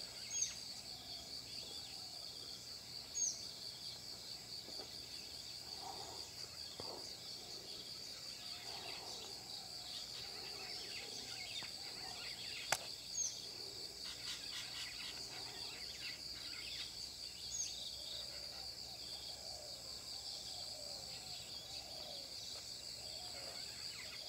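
Steady, high pulsing chorus of insects, with a few brief, sharp, high bird chips and soft, distant bird phrases scattered through; one sharp click about halfway through.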